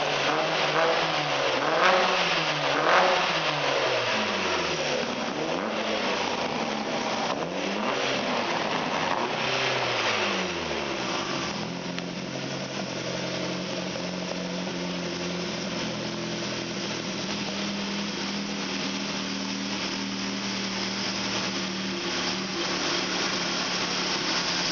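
Chevette's swapped-in C20LET 2.0-litre turbocharged four-cylinder engine blipped through a series of free revs, pitch rising and falling every couple of seconds, then dropping back to a steady idle about eleven seconds in.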